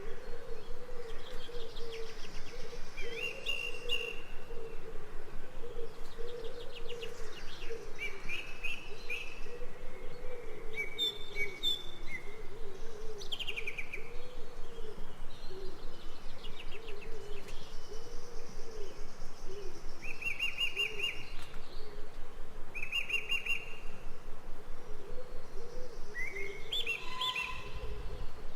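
Jungle ambience: birds chirping and trilling again and again, over a continuous low warbling chorus that pulses fast and evenly.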